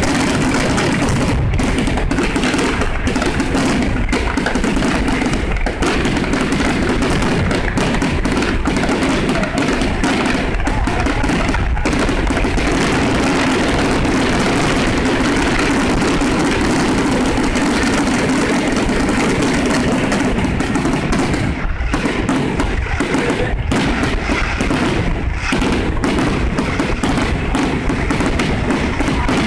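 Fireworks display at full intensity: dense, overlapping bangs and crackles that never let up.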